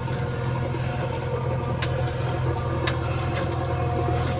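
JCB 3DX backhoe loader's diesel engine running steadily at a low, even pace, with a few light clicks over it.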